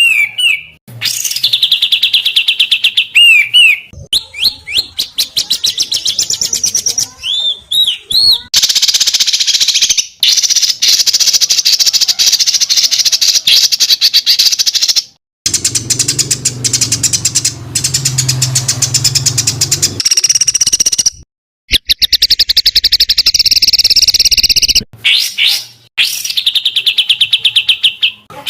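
Recorded songbird song edited into a training track: fast, harsh, rapid-fire trills and short up-slurred whistles, spliced together with abrupt cuts between clips. A low hum sits under one stretch in the middle.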